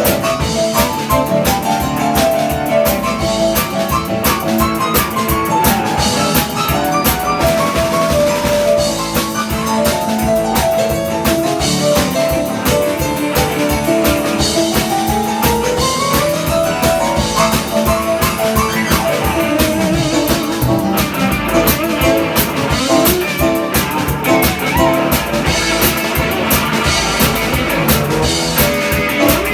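Live band playing an instrumental stretch: guitar lines with rising runs over a steady drum kit beat.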